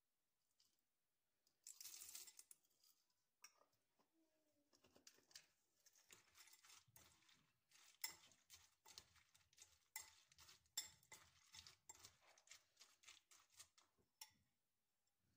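Light household handling sounds: a short rustle about two seconds in, then a long run of quick, light clinks and taps like dishes and utensils being handled.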